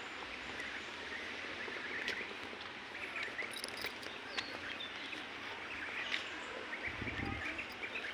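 Birds chirping, many short calls overlapping over steady background noise, with a brief low rumble near the end.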